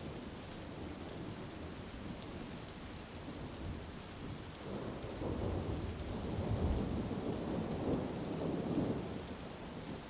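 Heavy rain falling steadily, with a low roll of thunder that builds about halfway through and dies away near the end.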